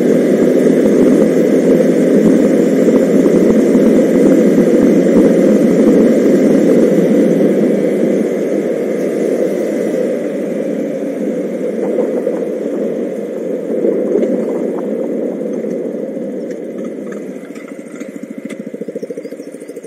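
Single-cylinder 125 cc motorcycle engine running, steady at first and then growing gradually quieter over the second half.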